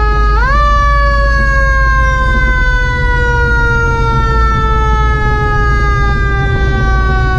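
Vehicle siren wailing: the pitch climbs quickly about half a second in, then falls slowly through the next seven seconds, over a steady low rumble.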